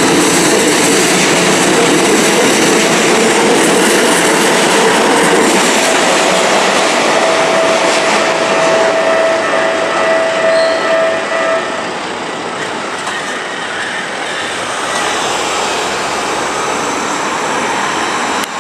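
A Keikyu electric train passing close by, its wheels rumbling and clattering over the rails. A drawn-out wheel squeal sounds for several seconds in the middle. The noise eases off after about twelve seconds.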